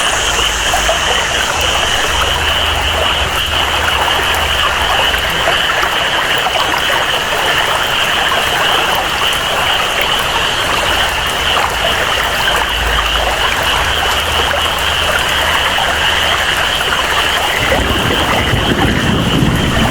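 Tropical rain and flowing water with a steady, high-pitched rainforest animal chorus over it. A deeper rush of water comes in near the end.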